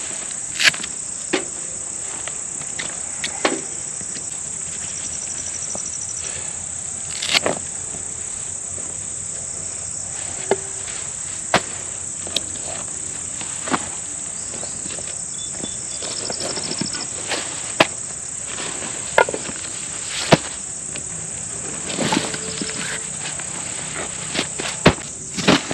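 Steady high-pitched chorus of crickets, with irregular sharp taps or knocks every second or two.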